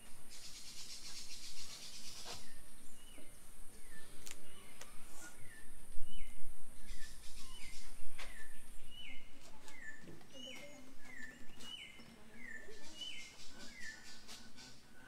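A small bird calling over and over, short chirps that hook up and drop in pitch about twice a second, over a steady outdoor hiss. A few light clicks and a dull bump about six seconds in.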